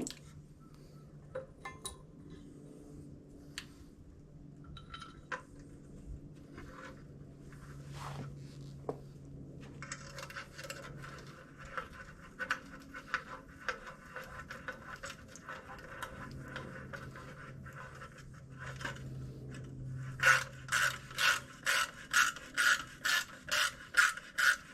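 Ratchet wrench turning a bolt in: scattered clicks at first, a quicker run of ratcheting from about halfway, then steady, louder ratchet clicks at about two a second near the end.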